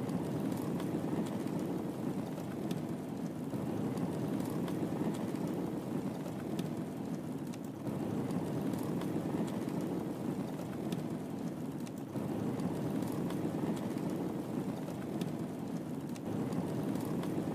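Wood fire burning in a fireplace: a steady low noise with many small, sharp crackles and pops scattered throughout.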